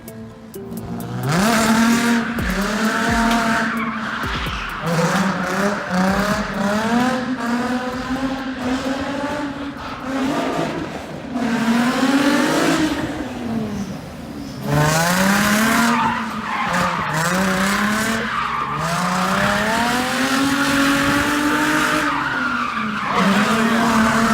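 Car drifting: the engine revs up and drops back over and over as the car slides, with the tyres squealing and skidding.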